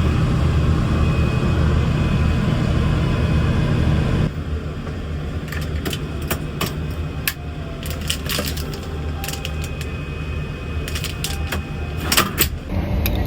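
Steady low hum of an airliner cabin. About four seconds in it drops to a quieter hum with a scatter of short sharp clicks and taps from small objects being handled.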